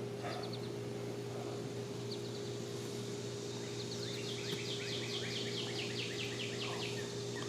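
A songbird singing a quick series of repeated, downslurred notes, about three or four a second, over a steady low hum.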